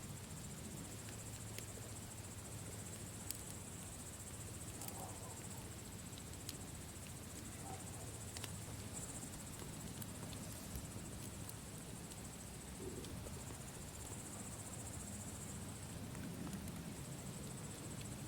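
Campfire crackling, with scattered sharp pops, over a steady high chirring of crickets.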